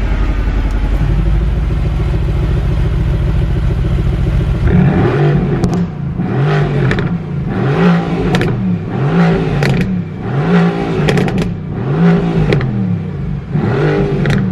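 Mercedes-AMG GT R twin-turbo V8 running at a steady fast idle just after a cold start. About five seconds in it is revved in quick blips, roughly one a second, each rising and falling in pitch, with sharp exhaust pops between them.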